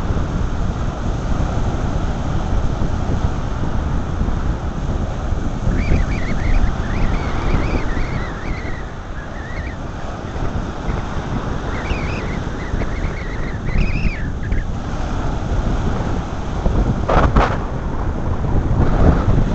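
Strong wind buffeting the microphone in gusts, with waves washing on the shore underneath. A thin warbling high-pitched sound comes twice in the middle, and a short sharp knock is heard near the end.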